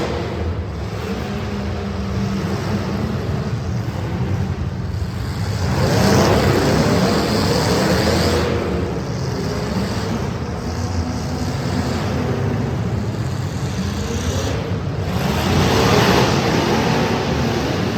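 Street stock race car engines running hard. The noise is continuous and grows louder twice, about six seconds in and again near the end.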